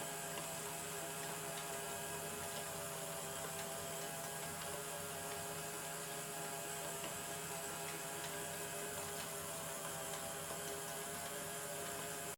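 Small 6 V gearhead DC motors running steadily, a constant whirring hum with scattered faint ticks from the mechanism.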